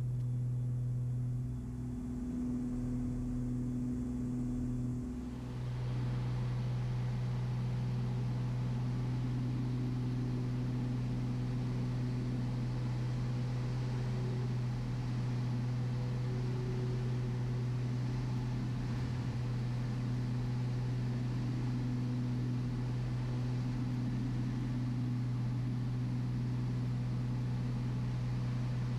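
Cockpit drone of a Beechcraft Baron B55's two six-cylinder piston engines and propellers in cruise: a steady low hum with a steady overtone. A wider hiss rises about five seconds in and then holds.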